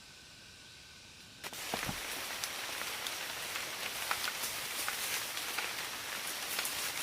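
Rain falling: a dense, steady hiss with many scattered drop ticks that starts abruptly about a second and a half in. Before it there is only a faint steady high tone over a quiet background.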